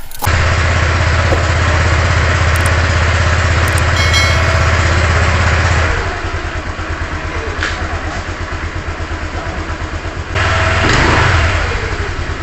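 Motorcycle engine running at a fast steady speed, dropping to a pulsing idle about six seconds in, then revved briefly near the end.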